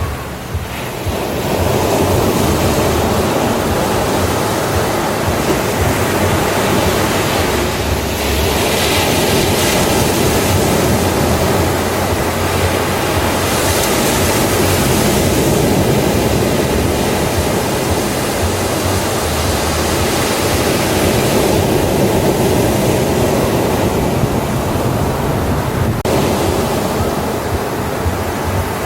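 Ocean waves breaking on a beach, a continuous wash of surf that swells a little around the middle.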